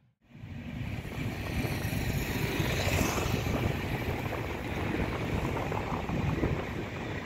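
Passenger train passing: a steady rumbling rush of wheels on rail that rises quickly within the first second, mixed with wind noise on the microphone.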